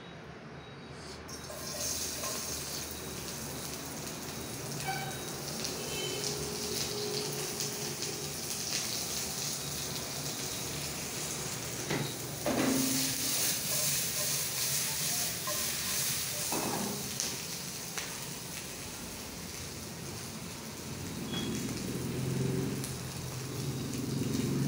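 Chopped vegetables sizzling as they fry in hot oil in a wok, the sizzle rising about two seconds in as they go into the pan and then holding steady. Two sharp knocks, like a utensil striking the wok, come about halfway through.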